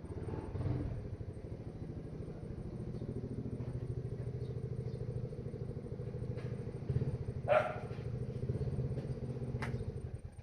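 An engine running steadily, with two sharp clicks in the second half.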